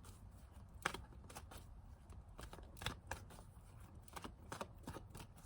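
Tarot cards being shuffled and handled: faint, scattered papery flicks and slides, with a couple of sharper snaps about a second in and about three seconds in.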